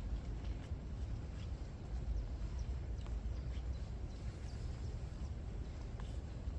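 Outdoor ambience of walking on a forest path in the rain: footsteps over a low, uneven rumble, with scattered faint high ticks.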